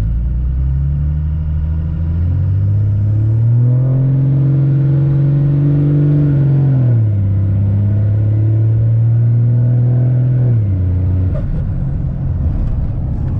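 P-pump 24-valve diesel engine in a pickup pulling under way. Its pitch climbs over the first few seconds, holds, then drops about seven seconds in and again near eleven seconds, like the automatic transmission shifting up.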